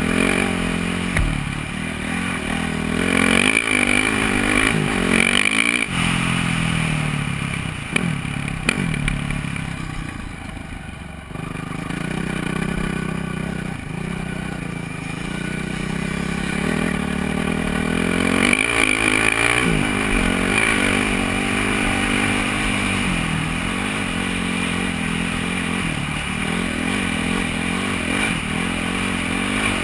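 Honda CRF450R's single-cylinder four-stroke engine running under riding load, its pitch rising and falling as the throttle is opened and eased. It drops off briefly about ten seconds in before picking up again, with a few sharp knocks a little before that.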